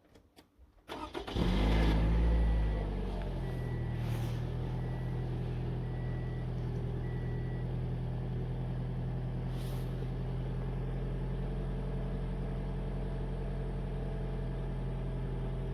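Car engine cold-started: it catches about a second in, flares to a fast idle, then settles into a steady idle, the engine having cooled all the way down. A short beeping tone repeats a few times just after it starts.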